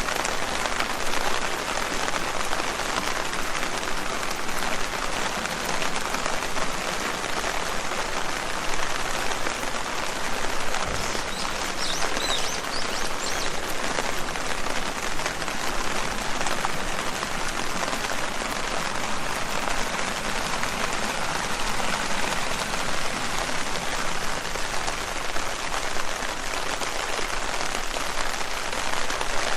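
Steady rain pattering on leaves, a dense continuous patter of drops. A brief low thump about 11 seconds in.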